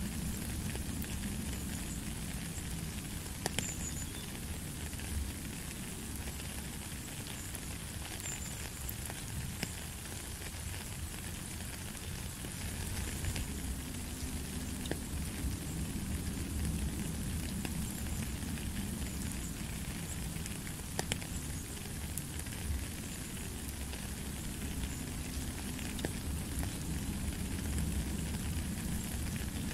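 Steady rain pattering on a puddle and wet stones, a dense hiss of small drops with a few louder single drips now and then.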